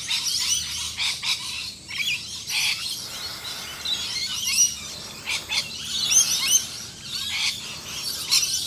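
Many wild birds chirping and calling at once, a dense chorus of quick, overlapping rising and falling notes.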